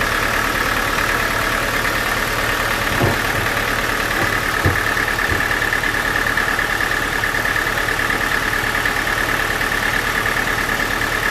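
Sawmill machinery running steadily at idle: a constant engine-like hum with a steady high whine over it, and a couple of faint knocks a few seconds in.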